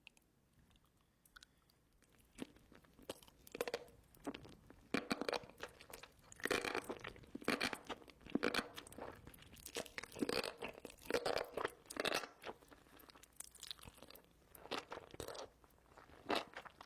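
A person chewing spicy enoki mushrooms, in repeated irregular bites and chews that start about two seconds in.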